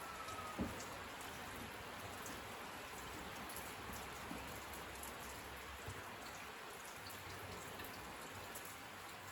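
Steady rain falling on surfaces, a constant hiss with many small drop ticks, and one louder tap about half a second in.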